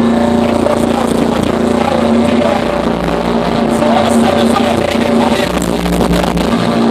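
Live metalcore band playing loud, with heavily distorted electric guitars holding a low note over dense drumming, recorded from the crowd.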